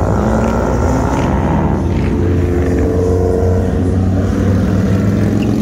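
Engines and exhausts of cruising cars passing close by, with a deep rumble throughout. Over the first two seconds one engine note falls in pitch as a car goes past, then another holds a steady note.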